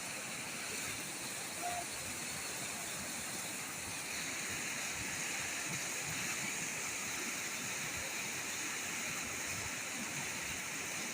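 Floodwater of a swollen river rushing steadily, an even wash of water noise.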